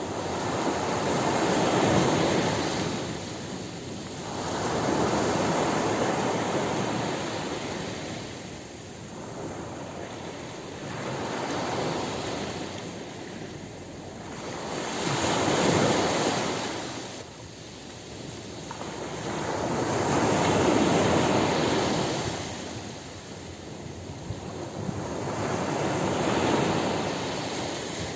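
Ocean surf breaking on a beach: about six waves, each rising to a rushing wash and falling back, a few seconds apart.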